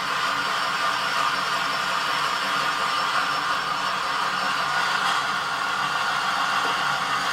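Truck engine idling steadily, a constant even hum.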